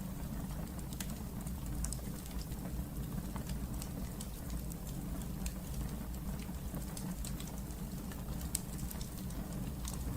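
Wood fire burning in a fireplace: a low steady rumble of the flames with frequent small sharp crackles and pops scattered throughout.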